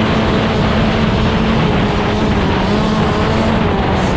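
Dirt bike engine running at steady, high revs, its pitch wavering a little, over a loud rushing noise.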